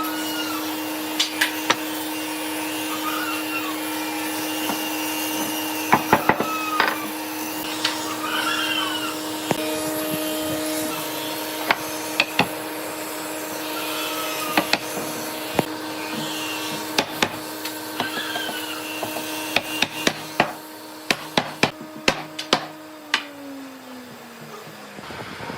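An electric power tool's motor running with a steady whine, with sharp clicks and knocks of work on wood; near the end the motor is switched off and winds down. Short high chirps sound in the background.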